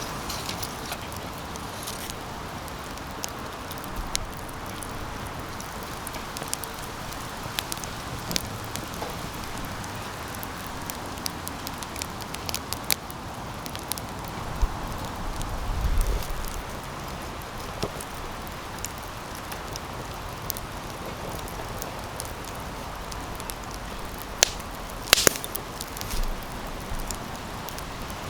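Wood fire burning: a steady hiss with scattered sharp crackles and pops, a few louder pops near the end, and a brief low rumble about halfway through.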